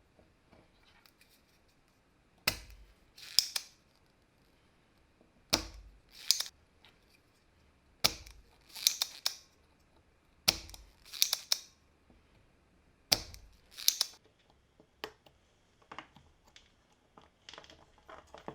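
Five sharp knocks, about two and a half seconds apart, each followed by a short rasping scrape; lighter clicks and taps near the end.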